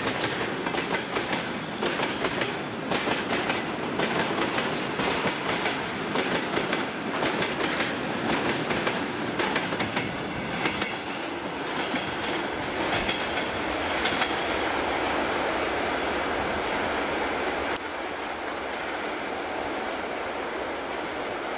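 Freight wagons rolling past close by, their wheels clicking over the rail joints in a rapid clickety-clack over a steady rumble. The clicks thin out after about fourteen seconds as the last tank cars go by, leaving a steadier rolling noise.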